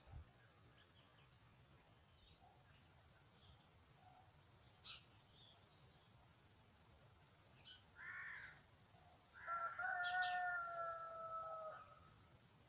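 Birds calling: faint scattered chirps, a short call about eight seconds in, then one long drawn-out call of about two and a half seconds, falling slightly in pitch, near the end.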